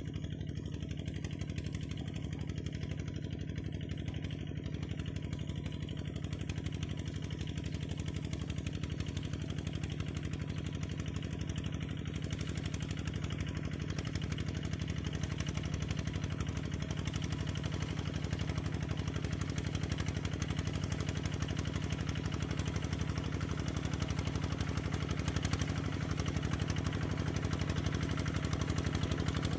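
Single-cylinder diesel engine of a Cambodian kor yon two-wheel tractor running steadily with a rapid, even chugging, growing slightly louder toward the end.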